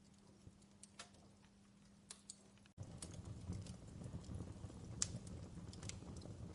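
Fireplace crackling faintly: irregular sharp snaps and pops over a low rush. Almost halfway through it cuts out for an instant and comes back louder, with a fuller low rush under the snaps.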